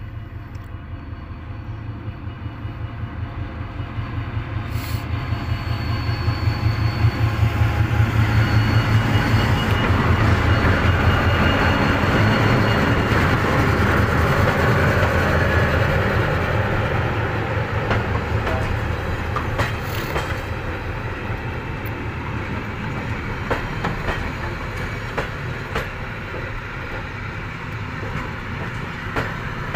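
Diesel-hauled passenger train passing close by. The locomotive's engine rumble builds to a peak about ten seconds in, then eases as the coaches roll past with a steady rhythmic clatter of wheels on the track.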